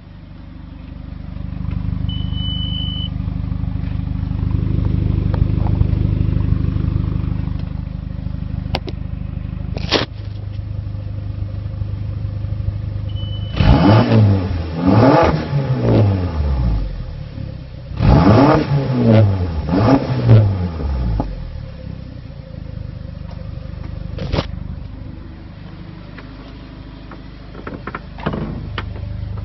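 VW 1.9T engine idling steadily, then revved in two quick bursts, each climbing and dropping back to idle, running clean without a misfire. A few sharp clicks come through between the revs.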